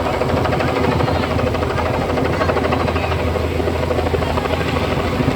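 Helicopter running nearby, a loud, steady rapid chop of the rotor blades with a deep engine hum.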